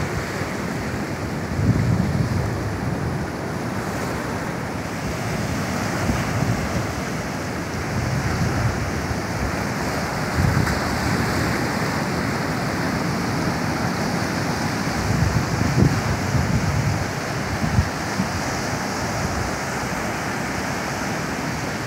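Pacific Ocean surf washing steadily onto the beach, with wind buffeting the microphone in low rumbling gusts every few seconds.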